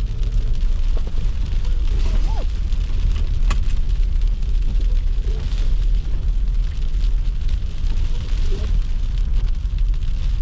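Steady low rumble of a car driving, with faint pitched snatches like a distant voice or radio.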